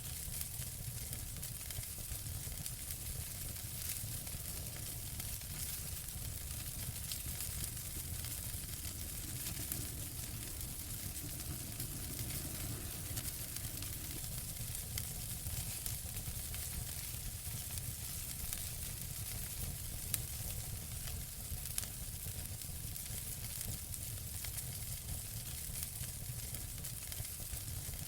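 Wood fire burning in a fireplace, crackling steadily with a soft hiss and low rumble, and many small pops; two sharper pops stand out about two-thirds of the way through.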